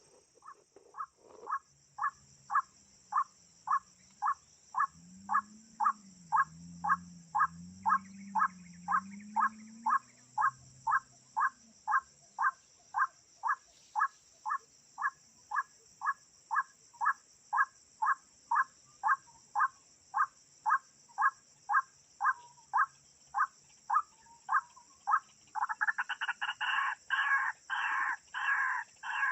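White-breasted waterhen calling: one short note repeated steadily about twice a second, then a louder, faster run of calls near the end.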